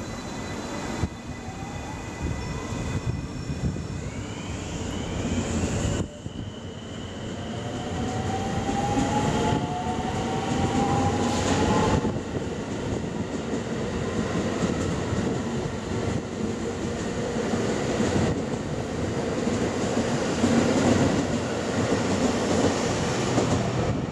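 Electric train running on the line, with a steady rumble of wheels on rail. Between about 4 and 12 seconds in, a whine rises steadily in pitch, and the rumble swells again near the end.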